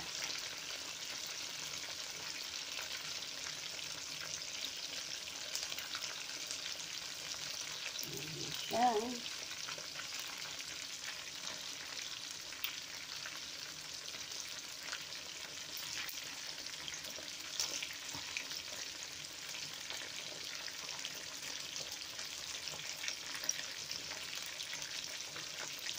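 Chicken wings sizzling steadily as they fry in hot oil in a pan, with scattered small clicks and pops.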